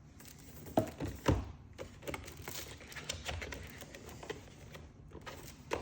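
Hands working at stiff clipper packaging: two sharp knocks about a second in, then a run of small clicks, taps and scrapes of plastic and cardboard as the product is worked loose.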